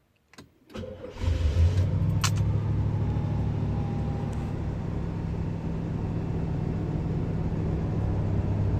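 Motorhome engine starting about a second in, catching quickly and settling into a steady idle.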